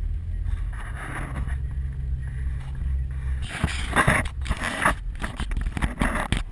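Hail storm heard from inside a vehicle: a low steady vehicle rumble, then about halfway through, loud bursts of hail and rain pounding on the body and windshield, several in quick succession.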